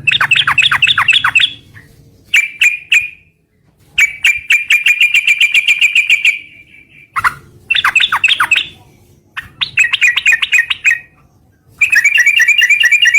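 Yellow-vented bulbul (trucukan) calling in fast, repeated chattering phrases of rapid high notes, broken by short pauses, with one longer trill about four seconds in.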